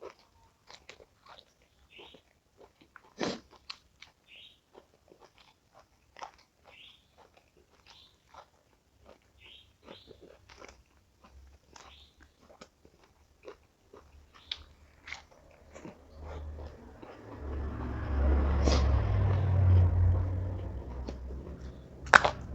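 Close-miked mukbang eating: crisp food being bitten and chewed in a run of small crunches and clicks, with a louder, muffled stretch of chewing noise near the end and one sharp crunch just before it ends.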